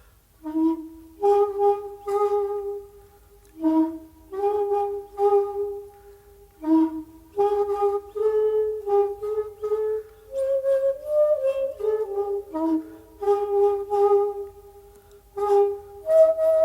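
Solo shakuhachi (Japanese end-blown bamboo flute) playing phrases of held and short notes, each phrase starting sharply after a brief dip, over a faint steady low hum.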